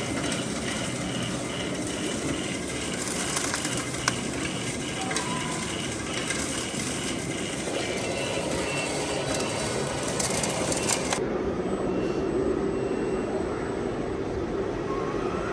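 Busy noise of running RC construction-machinery models, with a regular high beep repeating a few times a second through the first half. About two-thirds of the way through, the sound changes abruptly.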